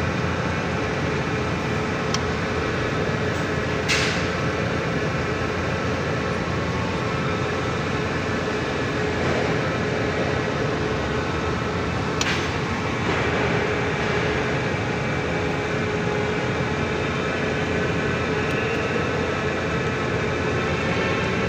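Four-cylinder forklift engine running steadily, its note rising slightly near the end, with a sharp click about four seconds in and another about twelve seconds in.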